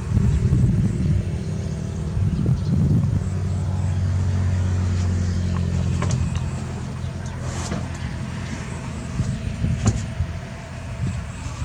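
A motor vehicle's engine running, a steady low hum, with a few sharp clicks in the second half.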